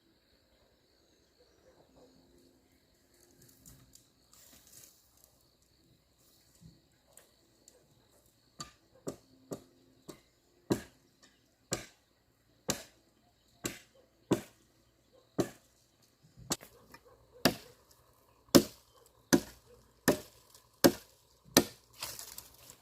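Chopping strokes of a blade into wood. The first several seconds are quiet, then a steady run of sharp strikes begins, a little faster than one a second, growing louder toward the end.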